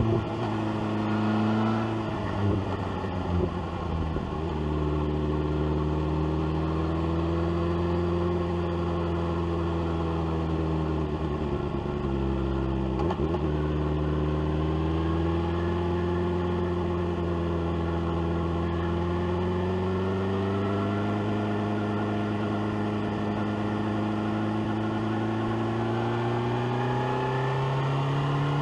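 BMW S1000R inline-four engine pulling under way through an aftermarket SC-Project exhaust. The engine note shifts in pitch, has brief breaks around three seconds and about thirteen seconds in that fit gear changes, and revs climb steadily near the end.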